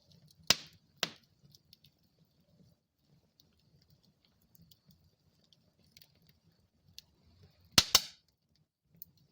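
Wood fire burning in a fireplace, crackling softly with a low rumble and sharp popping: two loud pops near the start and a louder double pop near the end.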